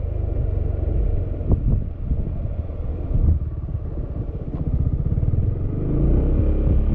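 Yamaha XMAX scooter's single-cylinder engine running under way, with wind noise on the microphone. The engine pitch rises and grows louder near the end as the scooter accelerates.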